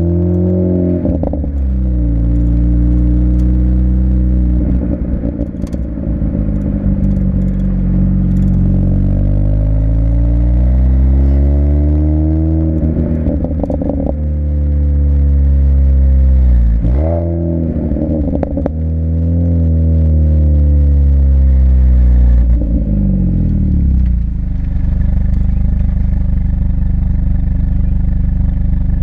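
Exhaust of a 2006 Mini Cooper S R53's supercharged 1.6-litre four-cylinder, through an aftermarket Alta exhaust. The revs climb and fall several times, with sudden drops in pitch and short crackles as the revs fall. After the last drop it settles to a steady lower note.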